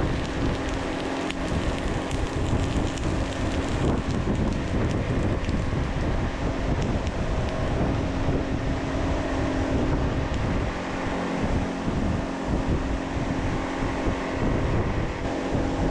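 A steady machine hum with a rushing, airy noise, constant throughout.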